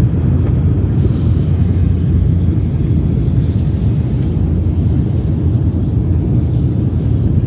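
Steady low rumble of a vehicle in motion, even throughout with no distinct events.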